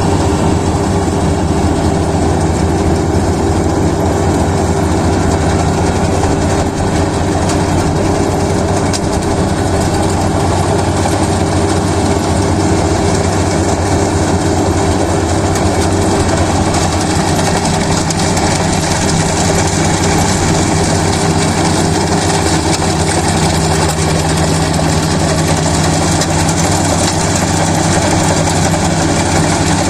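Kubota DC-35 rice combine harvester's engine and machinery running steadily, a loud continuous hum with a slightly higher tone coming in about two-thirds of the way through.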